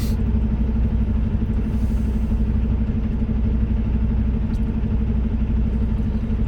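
Vehicle engine running with a steady low hum, heard from inside the cab.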